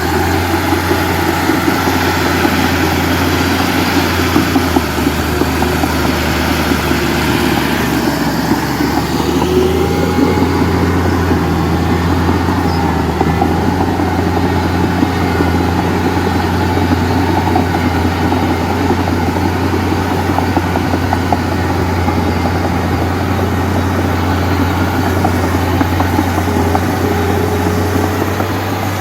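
Heavy diesel machinery engine running steadily, a constant deep drone with a rattly mid-range.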